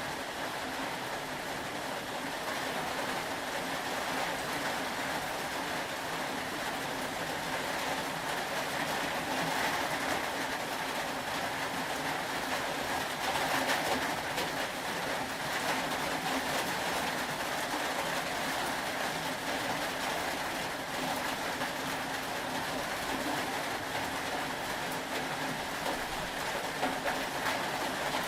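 Steady rain falling: an even hiss with a fine patter of drops that holds level throughout.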